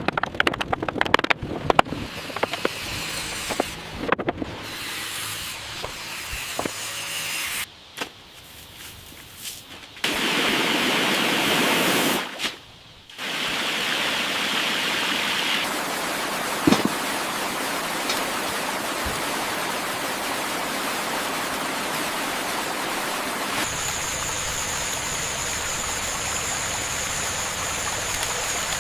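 A run of sharp knocks and clicks from work on stone and tools, then a loud hiss for a couple of seconds about ten seconds in, followed by a steady rush of running water like a stream or pond inflow. A thin, high, steady tone joins the water near the end.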